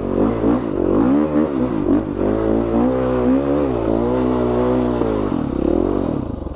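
Dirt bike engine revving in repeated rising and falling surges under the throttle, then dropping to a low idle near the end.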